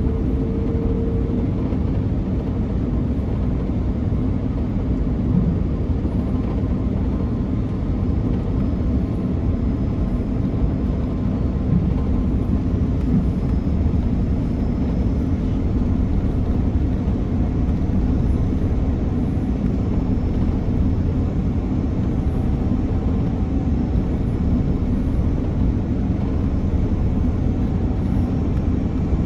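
Steady cabin noise inside an Airbus A330-300 with Rolls-Royce Trent 700 engines: a deep, even rumble of engines and airflow with faint thin engine whines above it.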